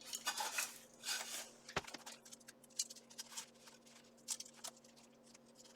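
Rustling and small clicks of articulated steel arm armor being handled and fitted, with one sharper click a little under two seconds in.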